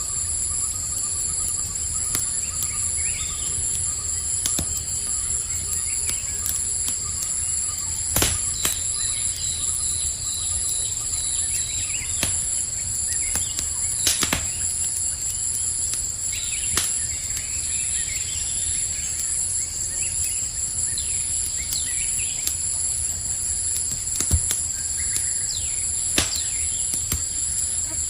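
A campfire burning, with a handful of sharp pops and cracks, over a steady high chirring of crickets and scattered short chirps.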